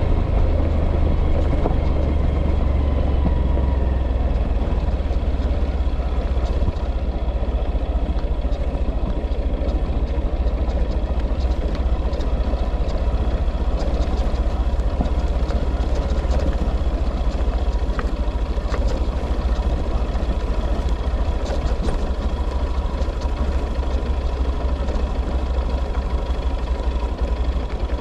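A vehicle engine running steadily: a continuous deep rumble with an even noise over it and a faint steady whine.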